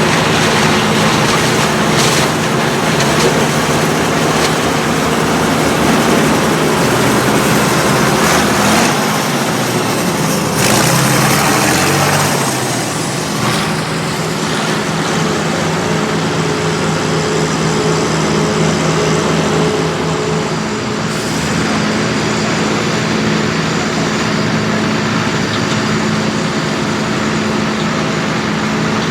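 Farm tractors' diesel engines running steadily, with a louder rush of noise about ten to twelve seconds in.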